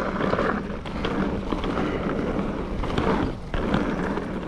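Mountain bike rolling along a dirt trail: a steady rush of tyre and wind noise with small clicks and rattles from the bike, easing briefly about three seconds in.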